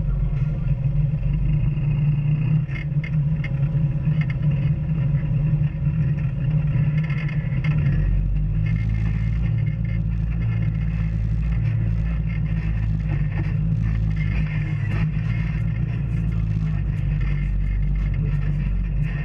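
Off-road vehicle engine running steadily while driving a dirt trail, its note shifting about eight seconds in, with scattered clatter and rattles from the rough ground.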